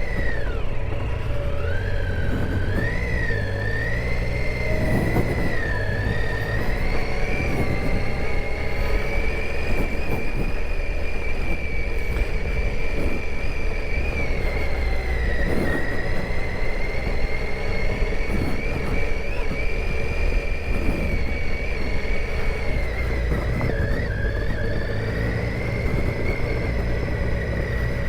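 Triumph Tiger 800 XCa's three-cylinder engine running under way on a dirt trail, its pitch rising and falling with the throttle, over a steady low rumble.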